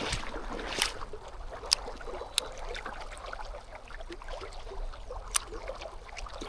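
Creek water running and trickling, with a few sharp clicks spread through it.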